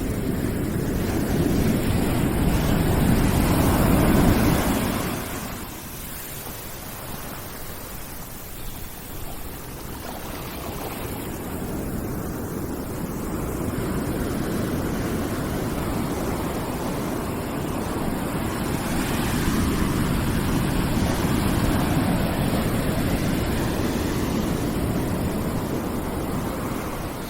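Continuous rushing noise with no tone in it, like surf or wind. It swells to a peak about four seconds in, drops off sharply, then builds slowly into a second, longer swell in the latter half.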